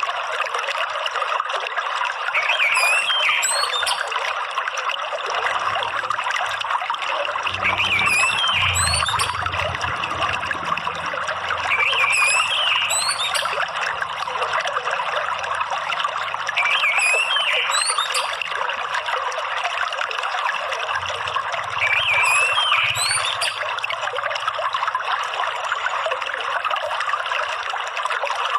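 Steady trickle of running water, with a short orange-headed thrush phrase coming back about every five seconds over it.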